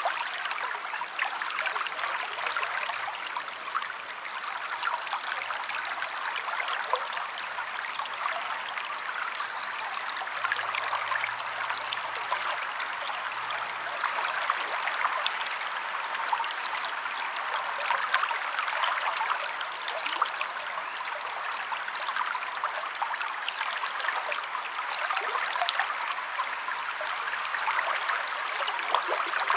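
River water flowing in a steady, splashy rush. A bird gives a short high trilled call every few seconds in the second half.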